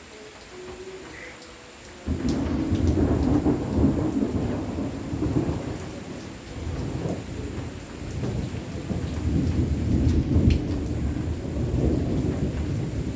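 Rain falling steadily, then about two seconds in a sudden, long roll of thunder that swells and eases in waves and is still rumbling at the end.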